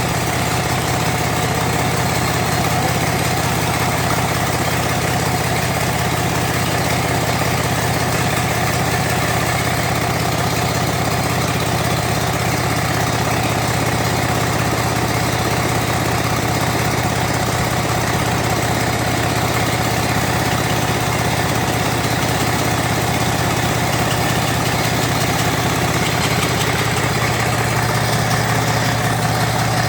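An old engine idling steadily at an even speed.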